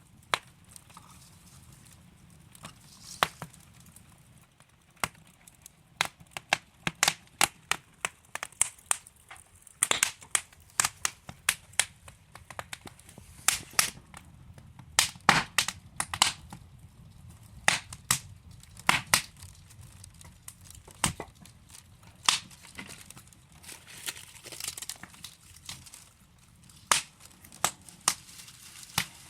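Wood fire in a fireplace crackling: burning logs give off irregular sharp pops and snaps, some in quick clusters, over a soft low rumble of the flames.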